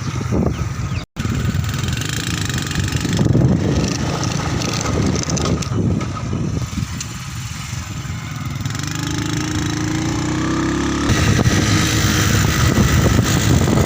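Motorcycle riding along a road: steady engine and road noise with wind on the microphone. The engine note rises for a couple of seconds about two-thirds of the way through.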